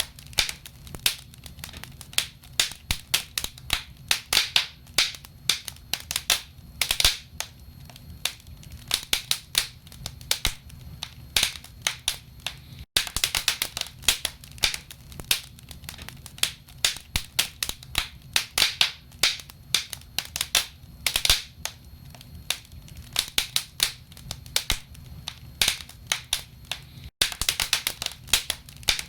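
Wood fire crackling in a fireplace: burning logs giving off irregular clusters of sharp pops and snaps over a steady low rumble. The sound cuts out for an instant twice.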